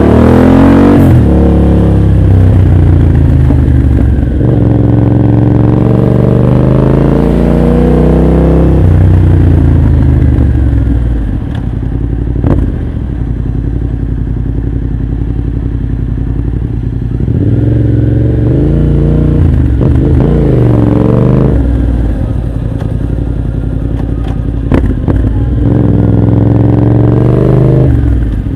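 Motorcycle engine running through an aftermarket exhaust, accelerating and easing off several times, its pitch rising then dropping. It steadies for a stretch in the middle, then climbs again twice near the end.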